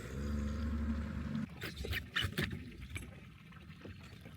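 Water splashing and slapping against the hull of a small sailing dinghy under way, with a few sharp knocks and splashes about two seconds in. A steady low hum runs through the first second and a half.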